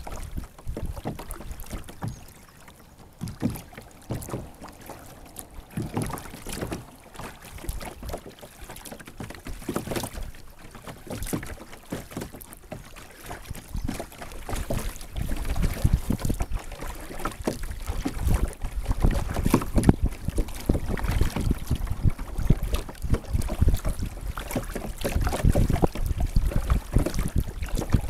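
Water splashing and lapping around a sit-on-top kayak as the paddle dips in, in irregular strokes that get busier and louder about halfway through.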